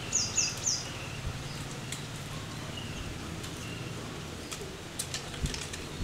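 Small bird chirping: three quick high chirps at the start, then a few fainter short whistled notes, over a steady low background hum. A few light clicks come near the end.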